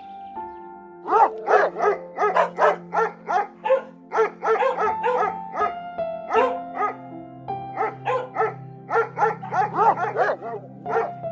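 A dog barking in quick repeated short barks, about two or three a second, over background music.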